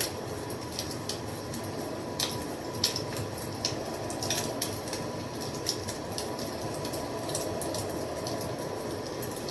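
Wood fire burning: a steady low rush of flame with frequent sharp crackles and pops, a few louder snaps among them.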